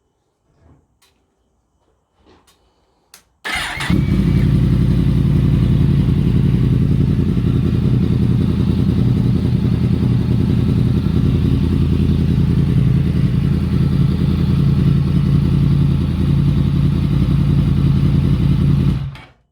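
2017 Yamaha MT-10's crossplane inline-four, fitted with an Akrapovic slip-on and a LeoVince decat pipe, cranking and catching warm about three and a half seconds in. It then idles steadily until it is switched off near the end. A few faint clicks come before the start.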